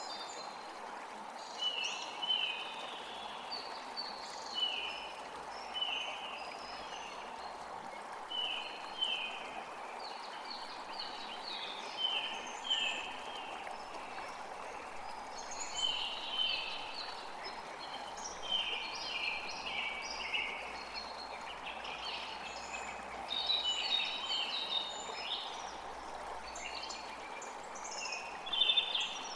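Small birds chirping in short, high, repeated notes, often two or three in quick succession, over a steady hiss of running water.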